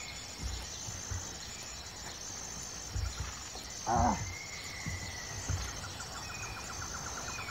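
Insects chirping steadily in pine woodland, a high thin trill coming and going every second or so, with a run of fast even ticks near the end. Scattered low bumps run underneath, and a short call that drops in pitch, the loudest sound, comes about four seconds in.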